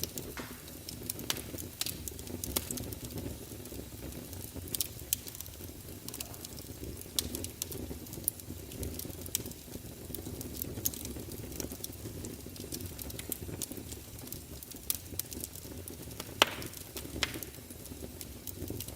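Fire burning in a fireplace: a steady low rumble of flames with frequent small crackles and pops, one sharper pop about three seconds before the end.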